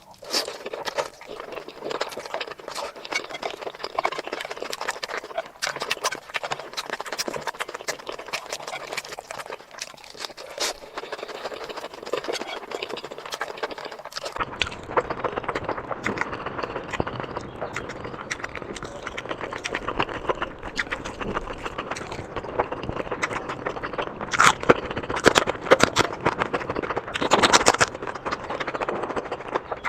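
Close-miked eating sounds: rapid chewing and mouth clicks. About halfway through, the background turns fuller and lower, and there are several louder bursts near the end.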